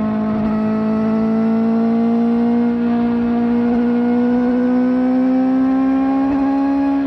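Kawasaki ZX-4RR's 399 cc inline-four engine, fitted with a slip-on exhaust, pulling hard in one gear, its high-revving note rising slowly and steadily under acceleration.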